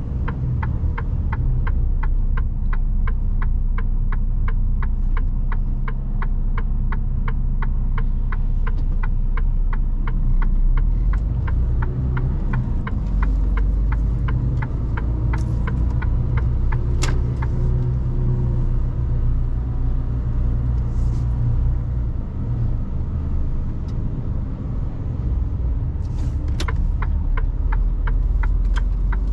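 Mercedes Actros truck engine running with a steady low rumble, heard from inside the cab. For the first half there is a rapid, regular ticking of about three clicks a second, which stops about 13 s in. A few single sharp clicks come later.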